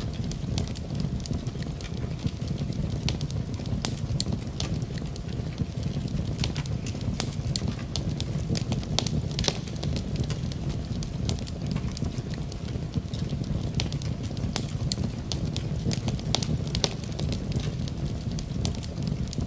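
Wood fire crackling in a fireplace: irregular sharp pops and snaps over a steady low rumble, with rain falling in the background.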